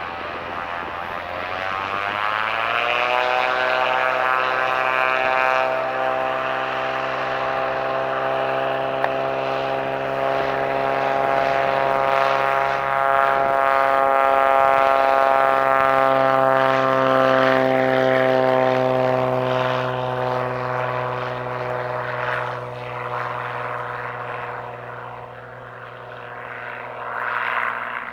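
Light propeller airplane's piston engine throttling up to full power about two seconds in, then running steadily as it passes. It grows loudest around the middle and fades toward the end, its pitch sinking slightly as it goes.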